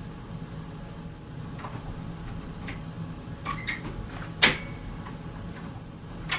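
A few faint clicks and taps in a quiet room over a steady low hum, with one sharper knock about four and a half seconds in.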